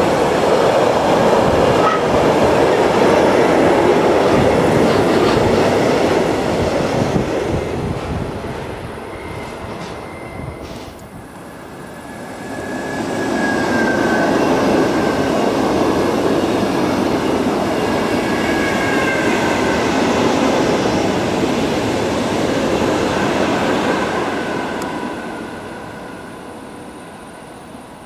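A long freight train of tank-container wagons rolls past with a steady rumble and clatter of wheels on rail, fading away about eight to eleven seconds in. A passenger train then passes, its rumble rising again with a thin high wheel squeal over it, and fades near the end.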